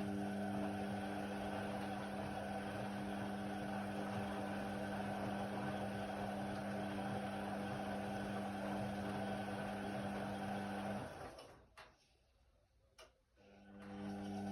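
Indesit WIDL 106 washer-dryer's drum motor running with a steady hum, stopping abruptly about eleven seconds in, and starting up again near the end after a short pause with a couple of faint clicks. This is the drum turning, pausing and turning again as it tumbles the load.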